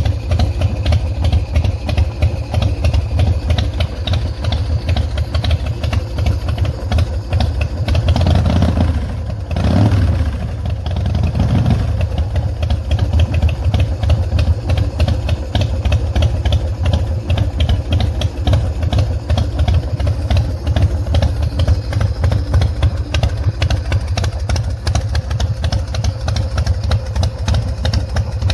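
Big Dog K9 chopper's S&S 117 V-twin engine idling steadily, briefly revved twice about nine and eleven seconds in.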